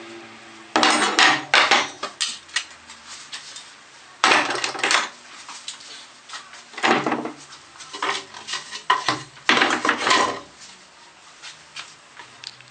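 Metal tools or parts clattering and scraping as they are handled, in about six separate bursts with brief ringing.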